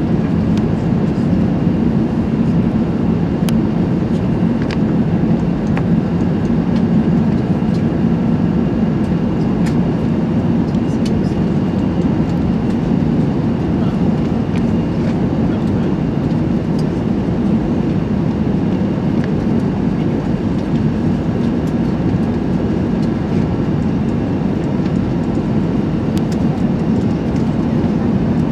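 Steady cabin noise inside an Airbus A380: a constant, unbroken rush of engine and air noise heard from a lower-deck seat, with a few faint clicks scattered through it.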